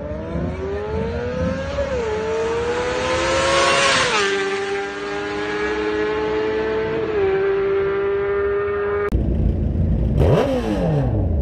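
Motorcycle engine accelerating through the gears: its pitch climbs, drops at upshifts about two and four seconds in, then holds steady at cruising speed. About nine seconds in the sound cuts to louder traffic rumble, with a vehicle passing as its pitch falls sharply.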